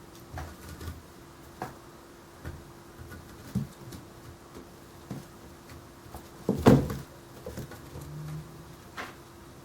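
Bobtail kittens at rough play: scattered light thumps, patters and scuffles of paws on a hard surface, with one louder bump about two-thirds of the way through. A faint steady hum runs underneath.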